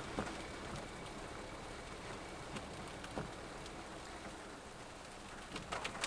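Steady rain hiss with a few scattered drops tapping, and a short cluster of taps near the end.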